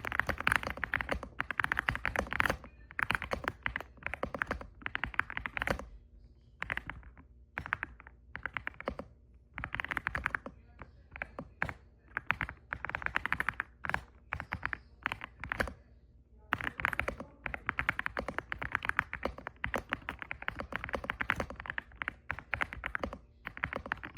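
Typing on an Aula F75 gasket-mount mechanical keyboard with Ice Vein switches: quick runs of key clacks a second or two long, with short pauses between.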